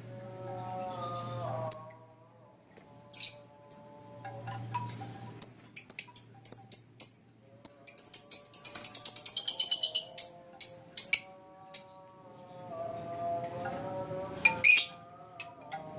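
Lovebird chirping: short high chirps scattered through, with a fast run of chirps lasting about two seconds around the middle.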